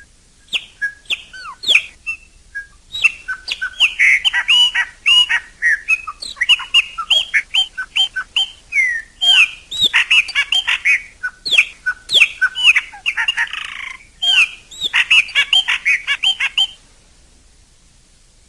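Chopi blackbird singing: a fast, varied string of clear whistled notes and slurred glides. It starts with a few scattered notes, becomes a dense run of song, and stops shortly before the end.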